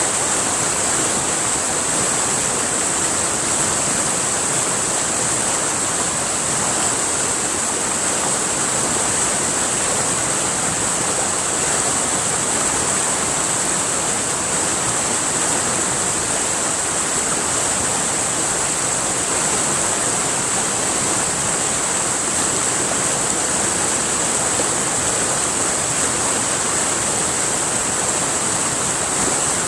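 River water flowing in a steady, unbroken rush, with a strong hiss high up.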